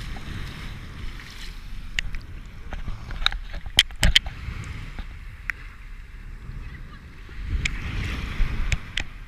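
Light wind rumbling on the microphone over the wash of the sea, with a few sharp clicks and knocks, the loudest two close together about four seconds in.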